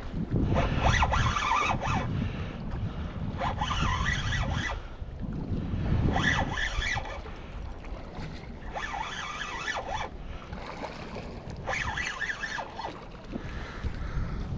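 Small waves washing up on a rocky shore about every three seconds, each surge hissing for about a second before it falls back, with wind rumbling on the microphone.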